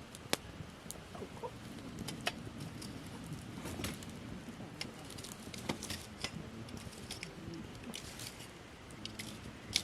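Wood fire of gathered branches crackling, with irregular sharp pops and snaps over a low steady rumble.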